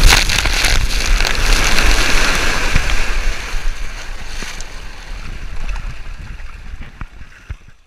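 Water rushing and splashing around a body-worn GoPro on a high-speed water slide, with a few sharp splashes in the first second. The rush dies away gradually over the last few seconds.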